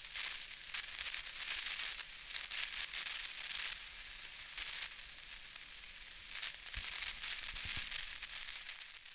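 Steady rain falling, a fine hiss of many small crackling drops.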